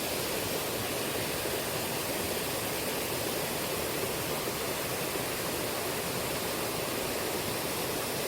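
Shallow river current rushing steadily.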